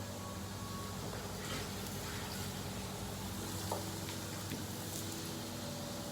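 Restaurant kitchen background: a steady low hum of running equipment with a few faint clicks and clatters.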